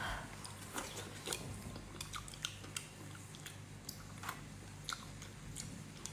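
A person chewing soft shellfish meat in chili sauce, close up: scattered small wet clicks and smacks of the mouth, over a low steady hum.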